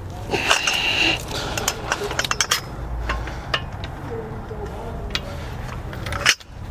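Metal hand tools clinking and clattering: a socket and extension bar being handled and fitted onto a car wheel's lug bolt, with a loud sharp knock near the end.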